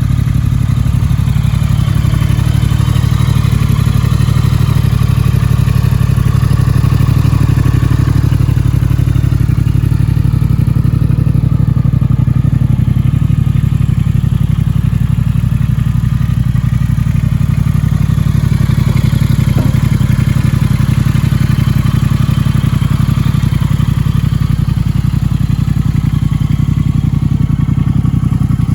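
2018 Triumph Thruxton's 1200 cc parallel-twin engine idling steadily through an aftermarket Vance & Hines exhaust.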